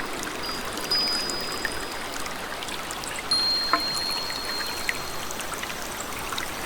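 Rain and trickling water in a steady wash with small scattered drips. Thin, high, steady whistled tones sound several times over it, each held for a second or more.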